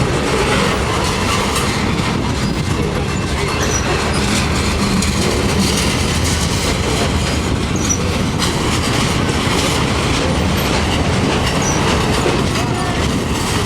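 Norfolk Southern mixed freight train's cars rolling past, a steady rumble with wheels clattering over the rail joints and a few brief, faint high wheel squeals.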